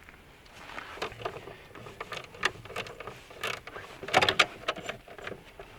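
Car battery being fitted into the engine bay: irregular knocks, clicks and scrapes of the battery and its fittings being handled, with a louder cluster of clunks about four seconds in.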